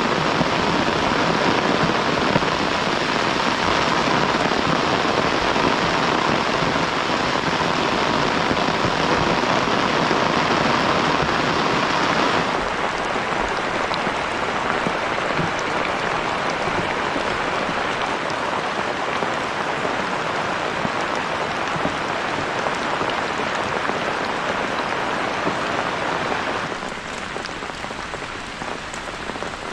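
Heavy rain falling, a steady hiss that drops abruptly in level about twelve seconds in and again near the end.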